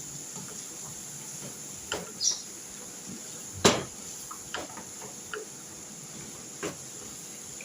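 Kitchen handling sounds: a few scattered knocks and clinks of dishes, utensils or cupboard doors, with one sharper knock about halfway through.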